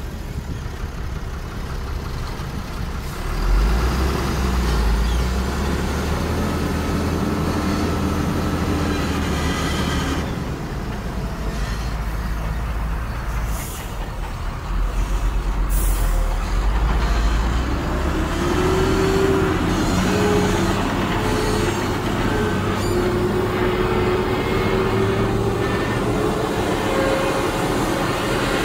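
Heavy diesel earthmoving machinery running, the engine pitch rising and falling as it works under changing load, with a couple of brief sharp sounds about halfway through.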